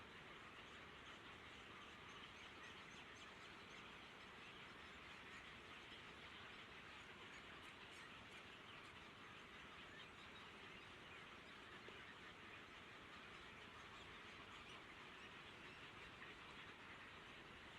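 Near silence: faint steady outdoor hiss, with soft high chirps now and then.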